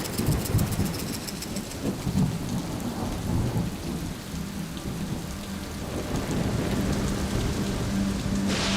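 Thunderstorm: rolling thunder over steady rain, with a steady low tone joining about six seconds in and a gust of hiss near the end.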